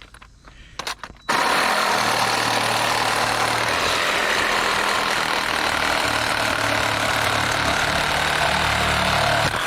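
Loud, steady rushing noise with a low engine-like hum under it, starting abruptly about a second in and cutting off sharply near the end.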